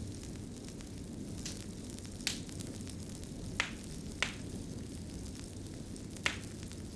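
Fire crackling: a steady low rumble of flames with about five sharp pops scattered through it, the loudest a little after two seconds, in the middle and near the end.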